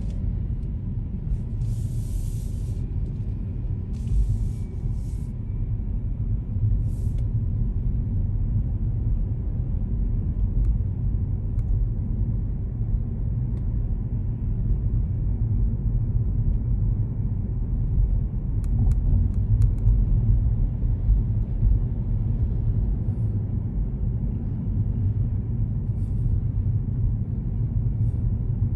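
Car driving along city streets: a steady low rumble of engine and tyre noise, with a few short hisses in the first several seconds.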